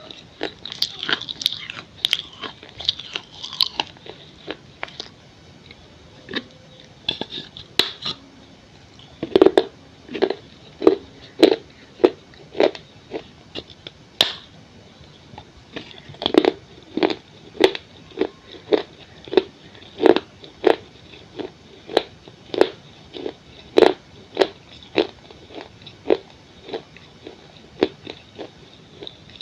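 Crunchy bites and chewing of pieces of a baked clay pot bowl: sharp crunches in the first few seconds, then a steady chewing rhythm of about one and a half crunches a second.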